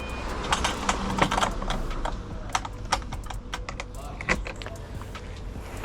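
A run of irregular sharp clicks and taps, several a second at first and thinning out after about four seconds, over a low background rumble.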